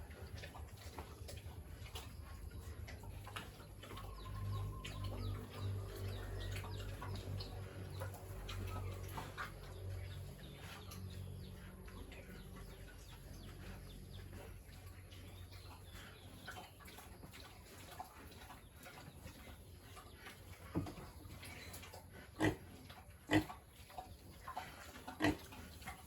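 Pigs grunting in low, pulsing runs, with a few sharp knocks near the end.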